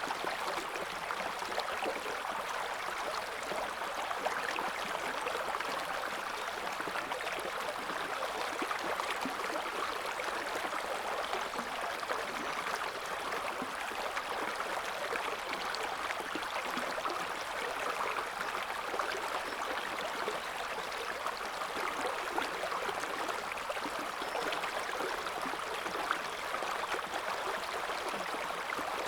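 River water flowing over stones: a steady, even rush with fine gurgling and splashing, strongest in the middle and upper range.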